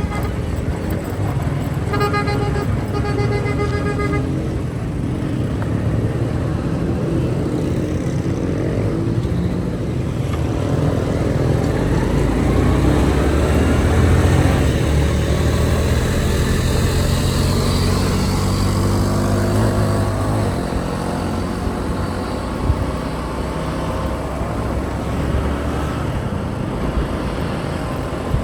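Motorcycle engine running while riding through street traffic, its pitch rising and falling as it speeds up and slows. A vehicle horn sounds for about two seconds near the start.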